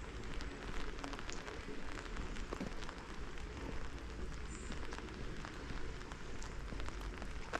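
Steady rain falling, with many scattered single drops striking close by.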